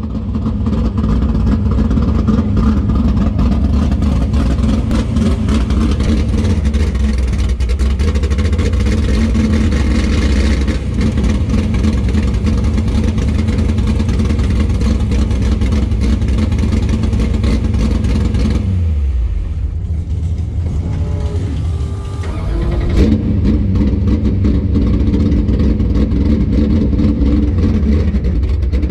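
A drag race car's engine idling steadily and loudly, heard first from inside the car. About two-thirds of the way through, the sound falls away and dips for a few seconds, then the engine idle comes back abruptly.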